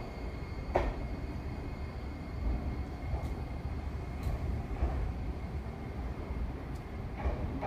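A red Iyotetsu electric train running slowly through the station, with a steady low rumble. A few sharp clacks of its wheels over rail joints sound near the start, about a second in, and again near the end.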